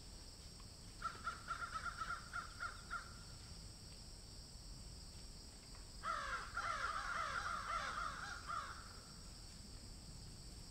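A bird giving two bouts of quick, repeated harsh calls, the second longer, louder and denser than the first, over a steady high hiss.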